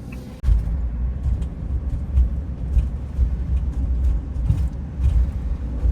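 Road rumble of a van being driven, an uneven low rumble that comes in abruptly about half a second in.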